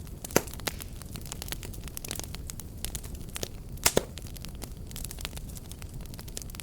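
Wood fire burning with a low rumble and frequent crackles and pops, two sharp snaps about four seconds in the loudest.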